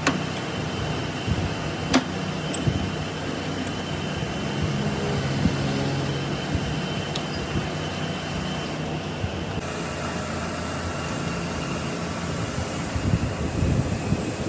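Steady hum of a running machine, with a single sharp click about two seconds in.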